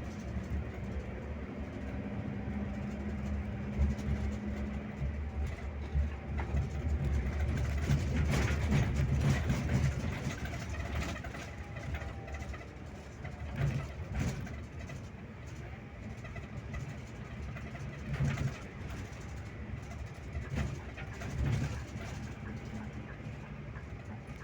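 Scania K360IB bus's diesel engine and drivetrain running on the road: a steady low drone that swells over the first ten seconds and then eases off, with a few short low surges in the second half.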